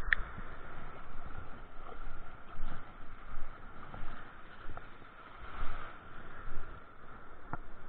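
Wind gusting on the microphone in uneven low rumbles over a steady rushing hiss of sea water, with a short sharp chirp at the very start and a couple of light clicks.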